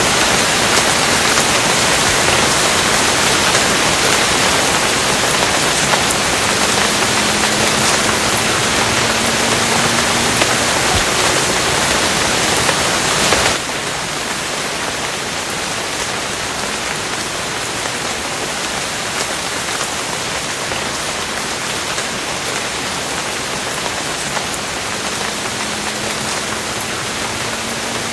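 Steady, dense rain hiss. About halfway through it drops suddenly to a quieter, less bright rain and carries on evenly.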